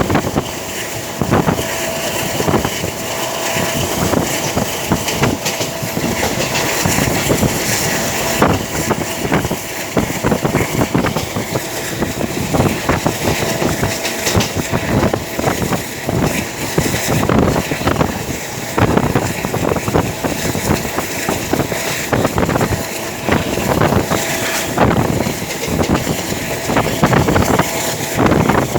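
A train running, heard from on board: a steady rumble and rushing noise with an uneven clatter of knocks throughout.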